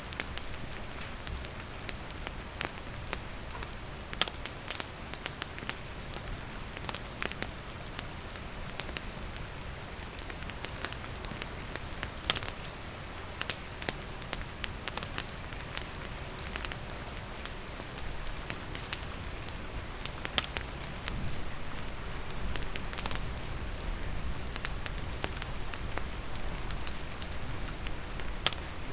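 Steady rain falling, with a wood campfire crackling through it in scattered sharp pops.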